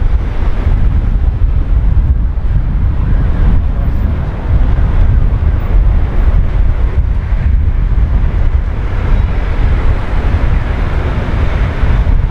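Strong wind buffeting the microphone, over the rush of waves from the sea.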